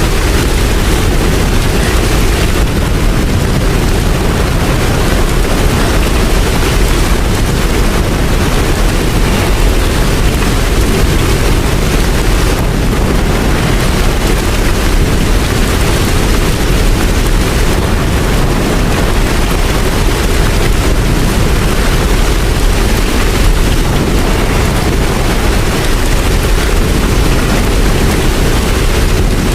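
Steady heavy rain: a dense, even wash of noise with a strong low rumble and no clock strikes.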